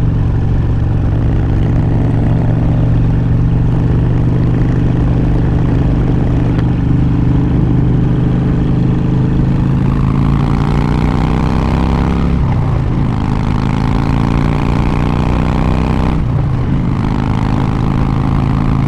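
Harley-Davidson Road Glide's V-twin engine running on the freeway. About halfway through, the pitch starts to climb under throttle, then dips twice a few seconds apart as the rider shifts up.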